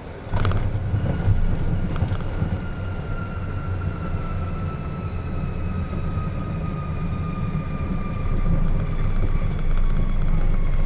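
A Beechcraft Premier I jet touches down with a sudden thump about a third of a second in. Its wheels then rumble heavily along the runway on the landing roll, while the whine of its twin turbofans falls slowly in pitch as the engines spool down.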